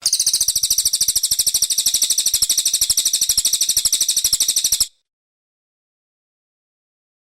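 Recorded song of a brown cililin songbird: a fast, high trill of sharp repeated chirps, roughly a dozen a second, lasting about five seconds. It cuts off abruptly, followed by dead silence.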